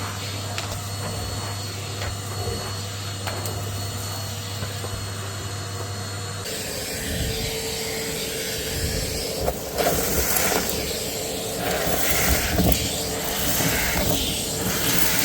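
Vacuum cleaner running with a steady motor hum; about six seconds in the sound changes abruptly to a rougher, fluctuating rush with irregular surges as it works over the floor.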